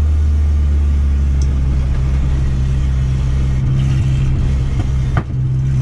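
Turbocharged VW Gol's AP engine running under way, heard from inside the cabin: a steady low engine note that steps up in pitch about a second in and then holds. A single short sharp crack near the end.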